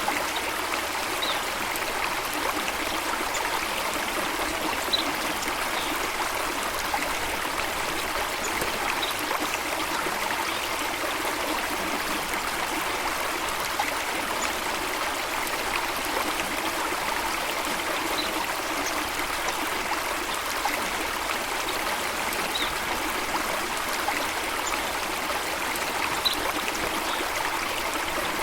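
Flowing water, a steady even rush with no pauses, with faint, short, high chirps now and then.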